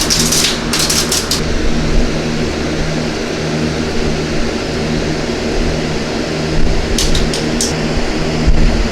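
Steady mechanical hum of a shop fan running. Short crinkling, rustling bursts come in the first second or so and again about seven seconds in, as aluminum foil is wrapped around the exhaust pipe.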